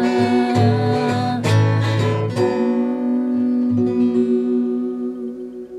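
Acoustic guitar playing the song's ending: strummed chords for about two seconds, then a final chord left to ring and slowly fade.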